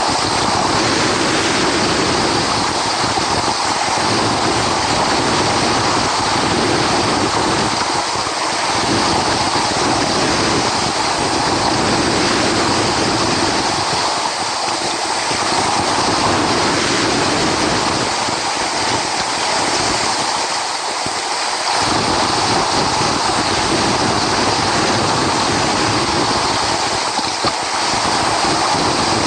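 Ocean surf rushing steadily, with no break in the noise.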